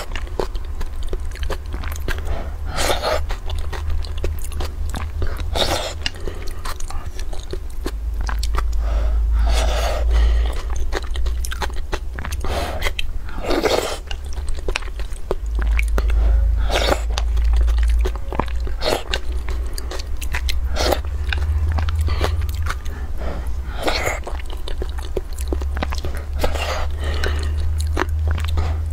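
Close-miked chewing of soft tofu in broth, with frequent short, sharp mouth clicks and a chewing burst every second or two. A steady low hum runs underneath.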